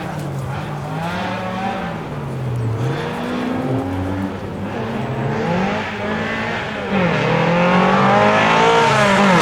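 Rally car engine revving hard, its pitch climbing and dropping again several times with the throttle and gear changes. It gets louder about seven seconds in and holds a higher, steadier note near the end.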